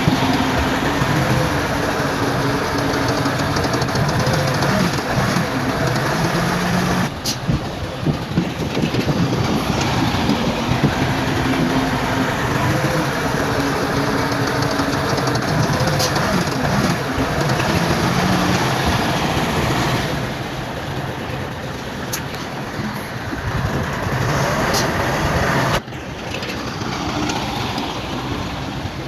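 Bulldozer's diesel engine working under load, its pitch rising and falling as it pushes, with a few sharp metallic clanks. The sound changes abruptly about a third of the way in, again past the middle, and near the end.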